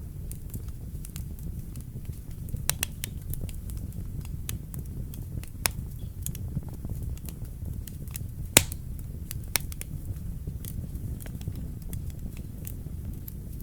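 Wood fire in a fireplace crackling: irregular sharp pops and snaps over a steady low rumble of the flames, with the loudest pop about eight and a half seconds in.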